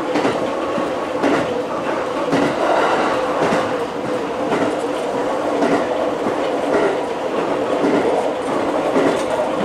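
Electric commuter train rolling along the track, heard from inside the car: a steady running noise with wheels clicking over rail joints about once a second.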